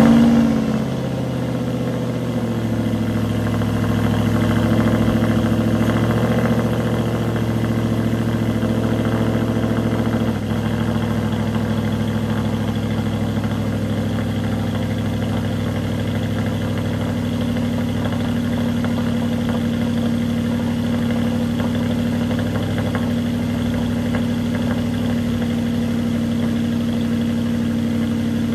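Aston Martin V8 Vantage's V8 engine, on its stock catalytic converters, idling fast just after a cold start. The start-up flare eases within the first second, and about ten seconds in the idle steps down slightly and then runs steady.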